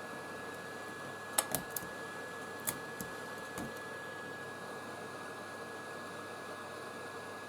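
Steady whir of a small blower motor with a thin high whine through it. A few sharp clicks and snaps come between about a second and a half and three seconds in, as a pry tool works at the cracked back glass of an iPhone 13.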